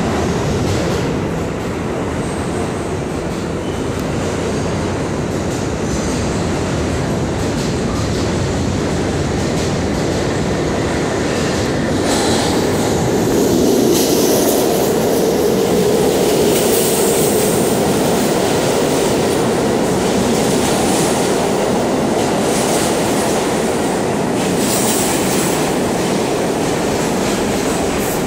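R68 subway car running through the tunnel, heard from on board: a steady rumble with wheels clattering over rail joints and some squeal from the wheels. The running noise swells for a few seconds near the middle.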